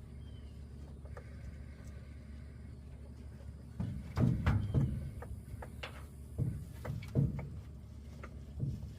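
Short knocks and clatters of parts and tools being handled, a cluster of them about four to five seconds in and a few single ones later, over a steady low hum.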